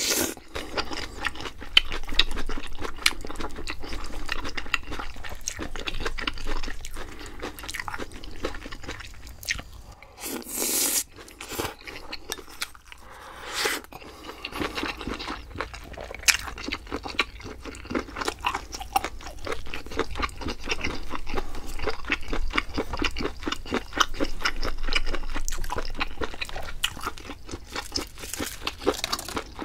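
Close-miked eating of a spicy stir-fried octopus rice bowl: chewing made up of many quick small clicks, with a few louder bursts of noise about ten and thirteen seconds in.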